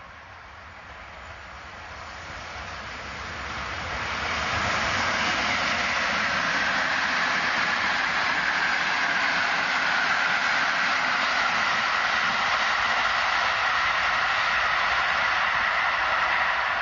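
Locomotive-hauled passenger train approaching and passing close by: the rush of wheels on rails grows over the first four or five seconds, then holds steady and loud as the coaches go by.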